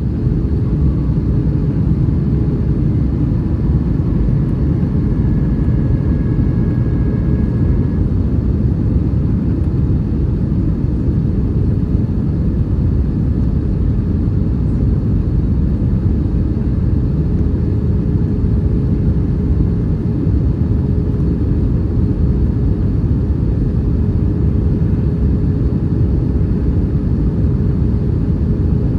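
Cabin noise inside an Airbus A320-232 in flight: the steady, low rumble of airflow and its IAE V2500 turbofan engines, with a faint constant hum over it and a brief faint higher tone a few seconds in.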